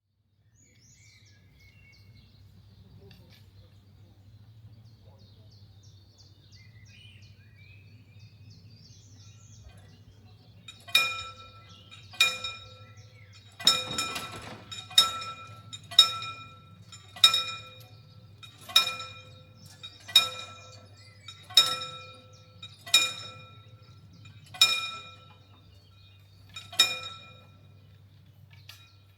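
Level-crossing warning bell striking about twelve single ringing strokes, roughly one every second and a half, starting about a third of the way in and stopping near the end, the last strokes a little further apart; it signals that the crossing is closing for an approaching train. Before the bell there is only a faint steady low hum and a few faint bird chirps.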